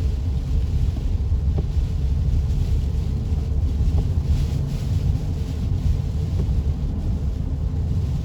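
Steady low road rumble of a car driving, heard from inside the cabin, with a fainter hiss of heavy rain and wet road over it.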